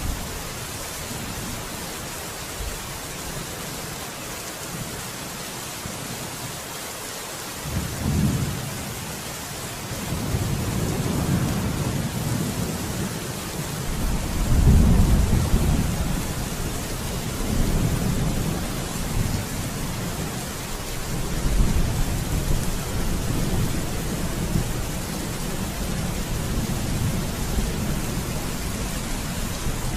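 Steady rain falling with rolling thunder: a low rumble starts about eight seconds in, swells to its loudest near the middle, and keeps rolling in waves.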